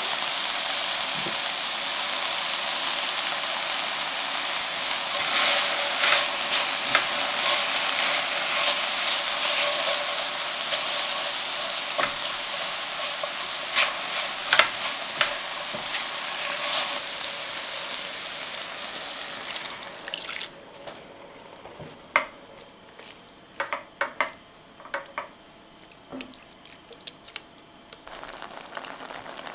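Sliced vegetables and curry paste sizzling in oil in a stainless steel sauté pan, stirred with a silicone spatula that scrapes and taps the pan. About twenty seconds in the sizzle falls away, leaving quieter stirring of a liquid curry sauce with occasional taps and scrapes.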